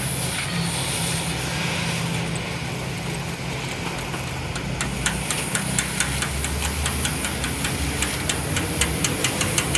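An engine or motor running steadily with a low hum. About halfway through, a quick series of sharp taps starts, roughly three or four a second.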